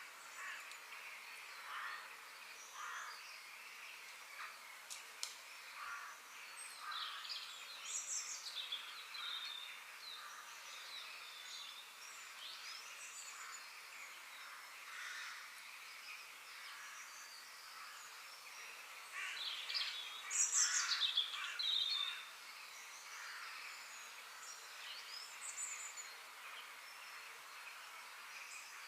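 Several songbirds chirping and calling over a steady background hiss, with a louder, busier flurry of chirps about two-thirds of the way through.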